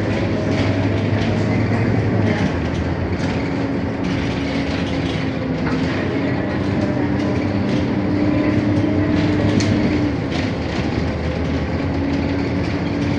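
Scania K230UB city bus's five-cylinder diesel engine running under way, its note stepping up and down in pitch several times as it accelerates and changes gear, with frequent short rattles.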